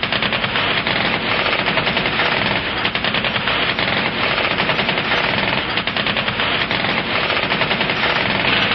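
Sustained automatic machine-gun fire, shots coming so fast they run together without a break.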